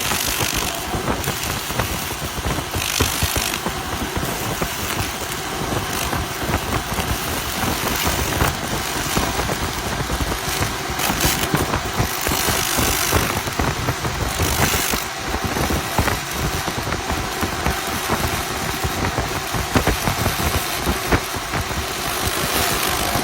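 A continuous-wave laser cleaning machine stripping rust from steel car parts: a steady, crackling hiss over a machine hum, with brighter, hissier stretches a few times.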